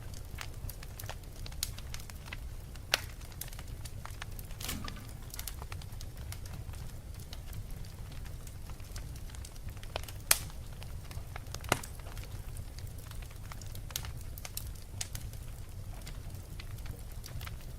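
Fire crackling, with a steady low rumble beneath many small ticks and a few louder sharp pops, the loudest about ten seconds in.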